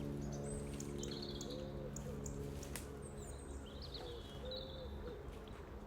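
Birds calling outdoors: a few short high chirps and some repeated low arching calls. A steady low hum sounds underneath at first and fades out about halfway.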